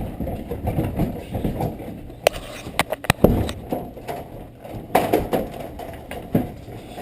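A run of knocks, clunks and scraping as a heavy microwave is lifted off its wall mounting and moved by hand, the loudest knock about three seconds in and another cluster of clunks about five seconds in.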